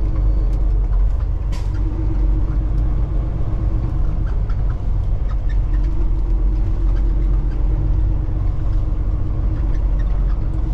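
Semi truck's diesel engine running at low speed, heard from inside the cab as a steady low rumble with a faint wavering hum, with a few light clicks and rattles.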